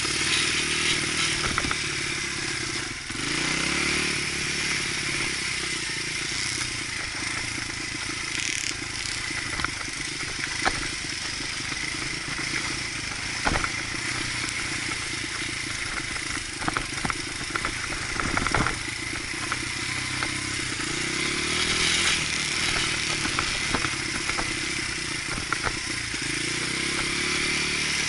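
Dirt bike engine running under riding load, revving up and easing off again several times, with sharp clicks and knocks now and then.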